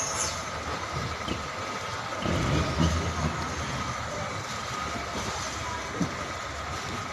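Container trailer truck running past: steady engine rumble and road noise that swells about two and a half seconds in, with a small knock near the end.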